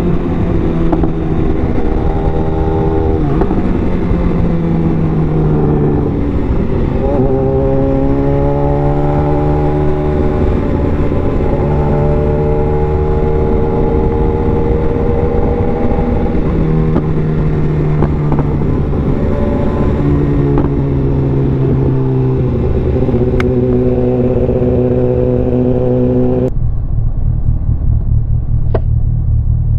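BMW S1000RR inline-four engine heard from inside the rider's helmet, its pitch rising through each gear and dropping back at the shifts, under heavy wind rush. About 26 seconds in the wind hiss cuts down sharply, as the helmet visor is closed.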